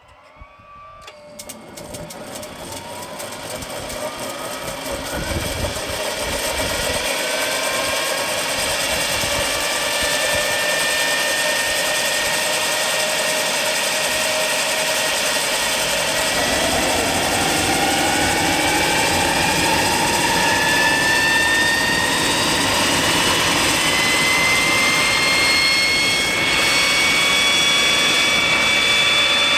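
Motorlet M701 jet turbine engine starting up: a whine that rises in pitch and loudness over the first several seconds as the engine spools, then runs loud and steady with its whine still slowly climbing.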